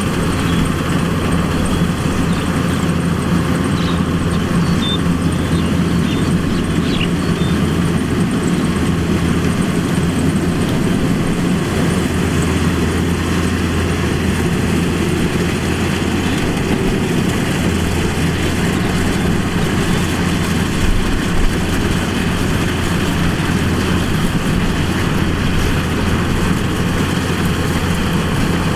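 Kubota DC-105X combine harvester's diesel engine and machinery running steadily at a constant pitch.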